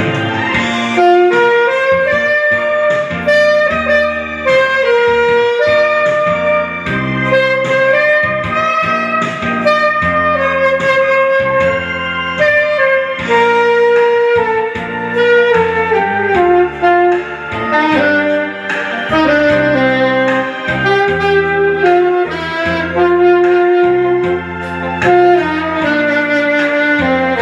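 A saxophone plays a slow, lyrical ballad melody in long held notes with gentle slides between pitches, over band accompaniment with a moving bass line.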